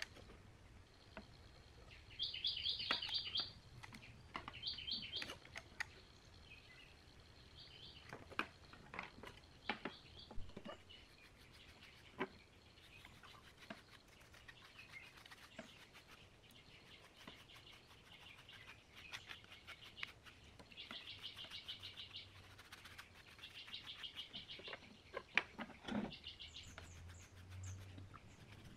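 A small bird chirping in short, rapid trills, several times over, the loudest about two to three seconds in, over faint scattered clicks and taps.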